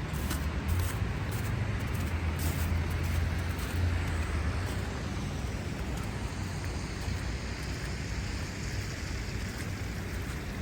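City street traffic: a steady hum of passing cars, with one vehicle's low engine rumble loudest in the first few seconds and then easing off.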